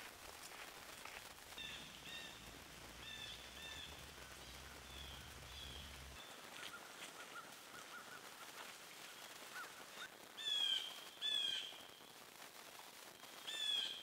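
Wild birds calling in bare autumn woods: short harsh calls, several in pairs, with a few louder ones near the end, and a brief run of soft quick notes around the middle.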